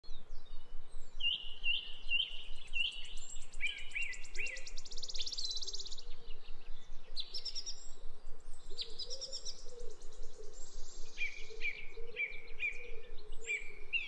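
Birds singing: runs of short, repeated high whistled notes, broken twice by a rapid high trill lasting a couple of seconds, over a fainter lower warbling.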